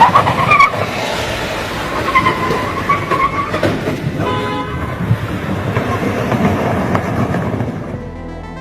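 A sudden loud bang, then a long high horn-like blast over steady rumbling vehicle noise.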